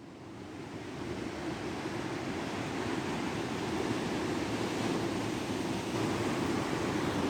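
Steady rushing noise of wind and sea surf, fading in over the first second.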